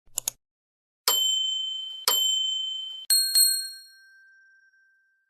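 Two quick clicks, then two steady electronic beeps one second apart, each fading slightly, then a brighter two-stroke chime ding that rings out and fades: a cartoon sound effect.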